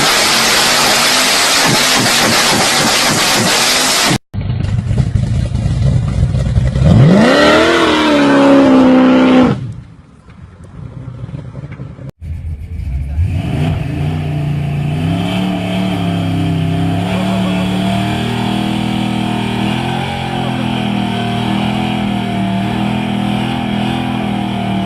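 Muscle car burnout clips cut together. First a loud, even hiss of tyre and engine noise. Then an engine revs up steeply, holds high revs and drops away. Last, an engine runs at a steady, slightly wavering pitch.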